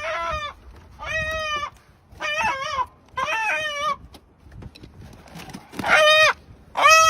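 An animal calling in short, pitched cries about a second apart: four cries, a pause, then two louder ones.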